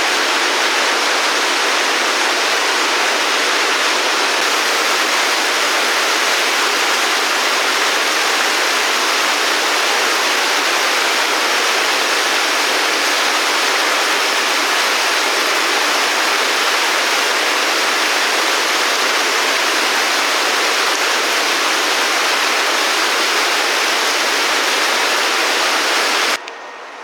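Steady rush of flowing water, an even hiss and roar like a waterfall or fast stream, with no break; it cuts off suddenly near the end.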